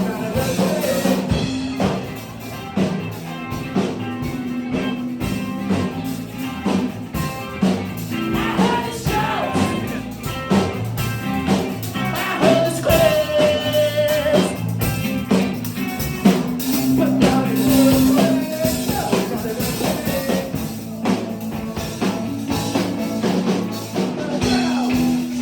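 Live performance of an original song: a singer's voice over instrumental accompaniment with a steady beat.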